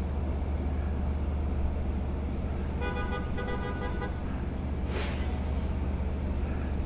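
Steady low hum of the train's EMD DM30AC locomotives idling. About three seconds in comes a run of short, pulsing tones lasting about a second, and at about five seconds a brief hiss.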